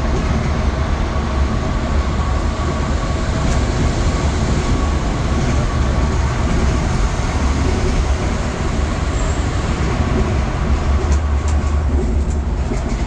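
Scania multi-axle bus on the move: a steady, loud, deep rumble of engine and road noise, with a few light clicks or rattles near the end.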